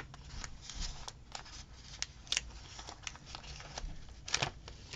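Paper stickers and planner pages being handled: short, scattered rustles and light ticks, with a louder cluster about four seconds in.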